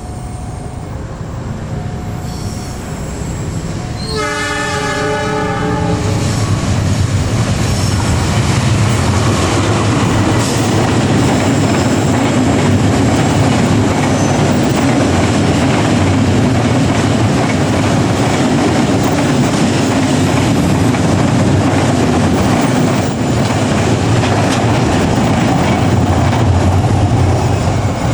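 A train approaching and passing close, growing louder over the first few seconds. About four seconds in it sounds its horn for about two seconds, then the steady rush and rumble of the passing train runs on at full volume.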